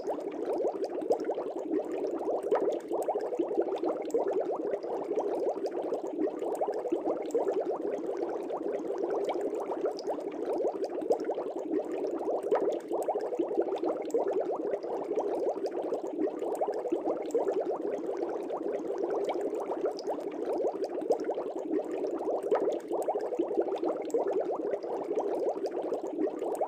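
Fish tank air bubbles rising and popping at the surface, a steady dense bubbling with many small pops.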